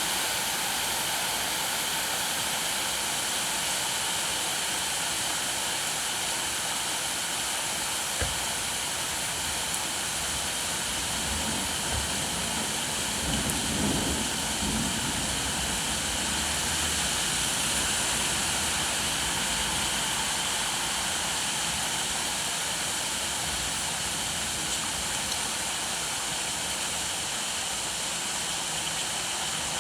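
Steady rainfall, a constant even hiss. A low rumble comes in about a quarter of the way through, swells near the middle and fades.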